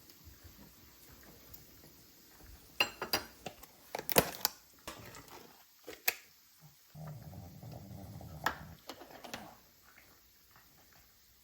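Kitchen handling sounds: a few sharp clinks and knocks of dishes or utensils, followed by a low steady hum lasting about two seconds.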